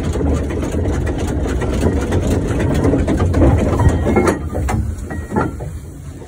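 Fowler showman's steam traction engine working under way, a low rumble with uneven exhaust beats that ease off about four and a half seconds in, leaving a few separate knocks.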